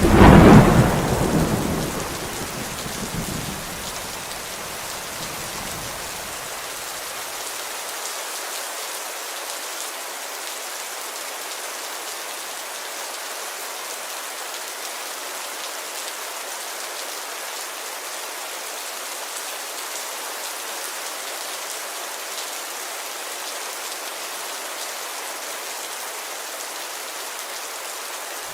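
Steady rain on a window, with a loud thunderclap right at the start that rumbles away over the next few seconds, leaving an even hiss of rain.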